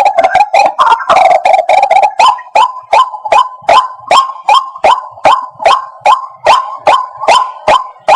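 White-breasted waterhen calling: a fast run of repeated notes, then from about two seconds in a steady series of loud, clipped notes, about three a second.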